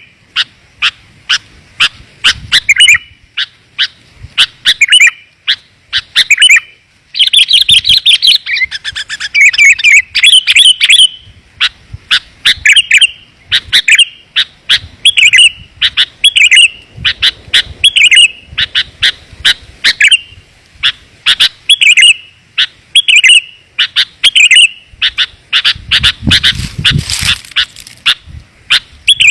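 Sooty-headed bulbuls (kutilang) calling in quick, closely packed runs of short chirping phrases, at times several birds overlapping. A rougher, noisier stretch with low rumble comes near the end.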